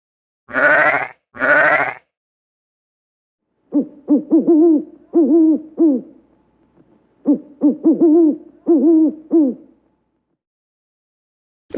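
Owl hooting: two runs of repeated, rising-and-falling hoots, each run a few seconds long. Before them come two short, harsh calls.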